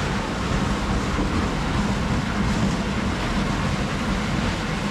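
Steady, loud running noise of ice-factory machinery, a continuous rumble with no breaks.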